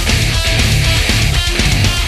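Instrumental metal passage from a progressive melodic death metal/metalcore band: distorted electric guitars, bass and drums playing loud and steady, with no vocals.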